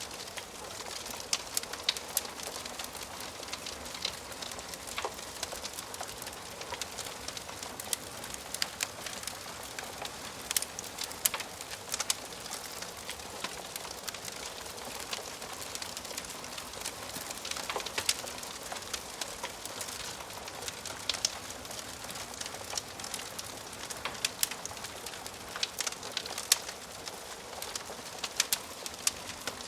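Wood fire crackling in a fireplace: a steady soft hiss with frequent sharp pops and snaps at irregular intervals.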